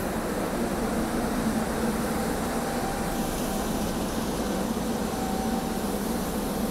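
SEPTA Regional Rail electric train creeping to a stop at the platform, giving a steady, even hum from the train with no wheel squeal.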